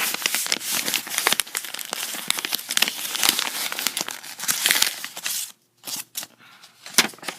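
Packaging crinkling and tearing as a mailed package is opened by hand. The rustling stops about five and a half seconds in, and a few light clicks follow near the end.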